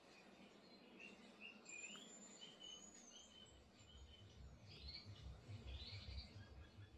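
Near silence with faint birds chirping in the background: a string of short high whistled notes, some sliding upward, then a couple of softer chirps later. Faint low bumps come in over the second half.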